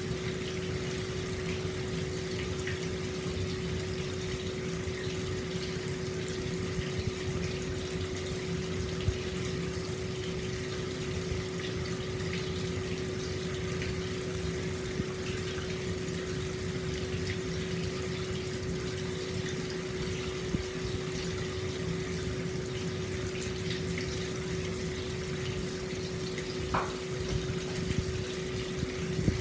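Hot spring water pouring steadily into an open-air bath, a constant rush of flowing water with a steady hum underneath.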